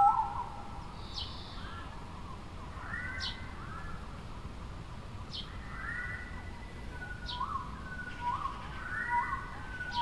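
Birds chirping: a run of short, arched chirps and whistled notes, with a sharp high note sweeping downward about every two seconds.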